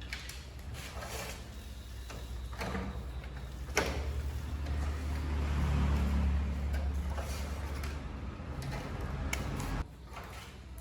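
A low machine hum that swells over several seconds and then cuts off suddenly near the end, with a sharp knock about four seconds in and a few lighter clicks.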